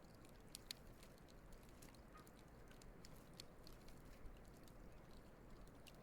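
Wood campfire crackling faintly: irregular small snaps and pops over a low, steady hiss.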